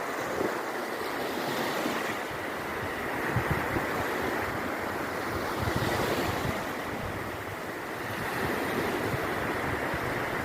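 Black Sea surf breaking on the beach, waves washing in every few seconds, with wind buffeting the microphone.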